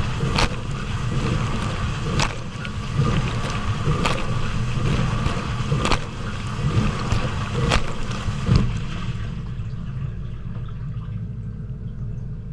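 Hotpoint dishwasher running a wash: a steady low pump hum under water spraying, with a sharp splash or knock about every two seconds as the spray arm turns. About nine seconds in, the spray noise dies away and only the low hum continues.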